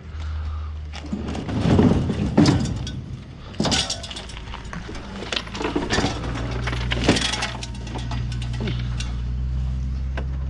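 Junk and debris being thrown onto a pile, crashing and clattering irregularly, with glassy clinks and breaking sounds, over a steady low hum.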